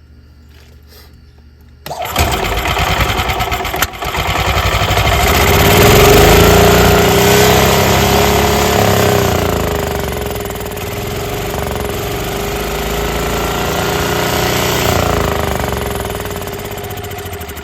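Golf cart's gasoline engine starting suddenly about two seconds in, then revving up and easing back twice. The throttle cable binds from rust inside it, so the throttle stays cracked open instead of returning to idle.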